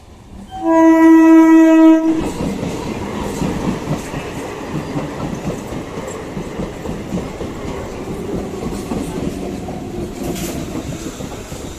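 An EMU local train sounds one steady horn blast of about a second and a half, then passes close by at speed with continuous wheel and coach running noise.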